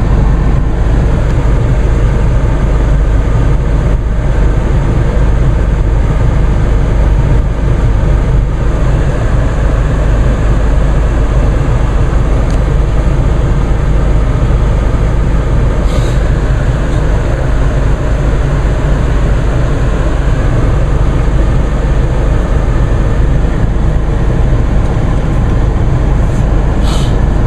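Mercedes-Benz GLK 250 BlueTec's four-cylinder diesel idling cold, heard from inside the cabin with the heater blower on maximum defrost: a steady low rumble under a rush of air. The engine is still cold and has not warmed up.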